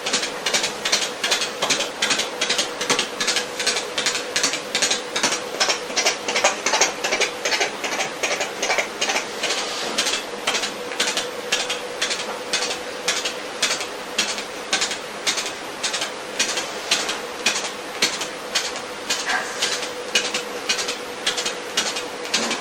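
Vocal imitation of a mechanical sound by a beatboxer: evenly spaced, hissing strokes repeated at about two to three a second, like a ratchet or chain, over a faint steady hum.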